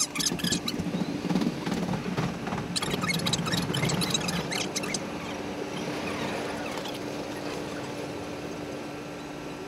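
Sped-up sound of a train pulling away and running along the track: a fast patter of clicks and squeaks over a steady hum, the clicks dying away about five seconds in, with a falling whine after.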